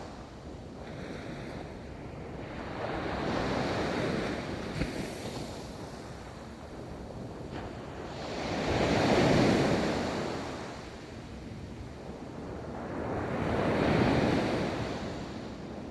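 Ocean waves breaking and washing up a beach, swelling and ebbing in three surges about five seconds apart, the second and third louder.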